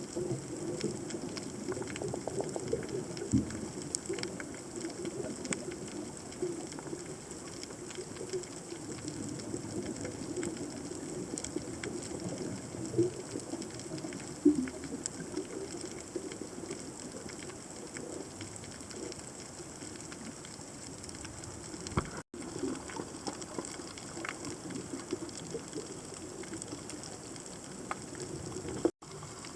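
Underwater ambience picked up by a submerged camera: a steady watery wash with scattered clicks and crackles and a few louder pops. The sound cuts out for an instant twice in the last third.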